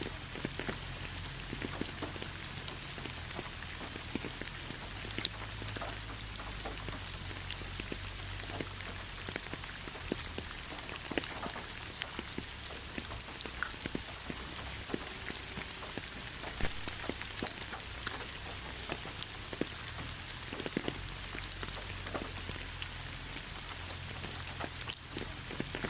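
Steady rain falling, with a constant hiss and many separate drops striking close by as sharp ticks. A low, steady rumble runs underneath.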